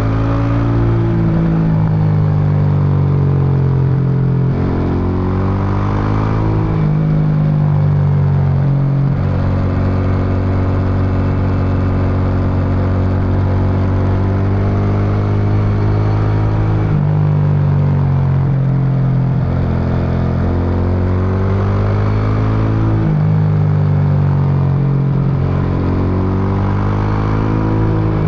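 Suzuki Intruder VS800's 805 cc V-twin running on the road, its exhaust note rising and falling with the throttle. The pitch jumps suddenly several times.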